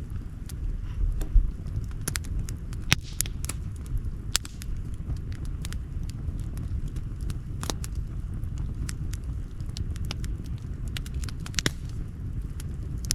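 Outdoor campfire crackling, with irregular sharp pops and snaps, a few of them louder, over a low steady rumble.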